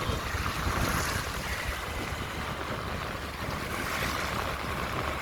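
Wind rushing over the microphone while moving along a road, a steady rough rumble with a hiss above it.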